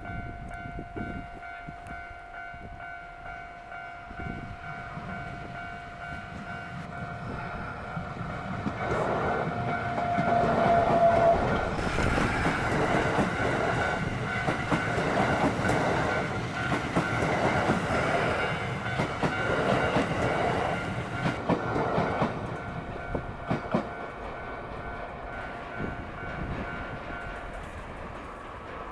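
Japanese level-crossing warning bell ringing steadily as a train passes over the crossing. The train runs loud with clattering wheels from about nine seconds in until about twenty-two seconds, with a brief high tone near ten seconds. The crossing bell stops near the end.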